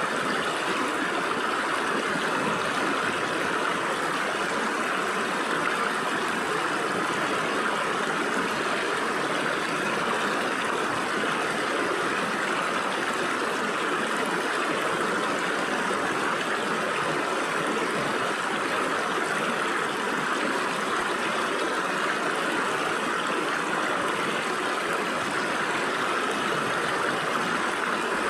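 Stream water flowing and splashing through gaps between rocks, a steady even rush.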